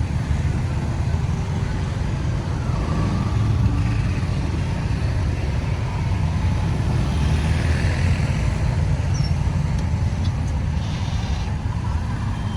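Road traffic noise: a steady, low rumble of vehicle engines and tyres on the road.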